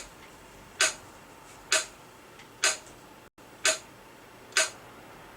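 A steady beat of short, sharp percussive clicks, about one every 0.9 seconds, keeping time for a slow chant between spoken lines.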